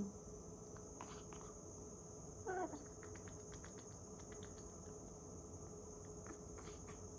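Crickets chirring steadily as a high background trill, with soft scattered clicks and one short voice-like sound falling in pitch about two and a half seconds in.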